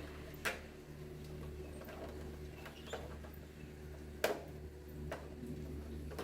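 A few sharp clicks or knocks, the loudest a little past the middle, over a steady low hum.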